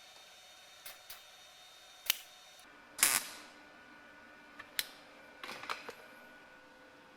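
Sharp clicks and knocks of metal jack parts being handled during reassembly, about eight in all. The loudest comes about three seconds in and rings briefly.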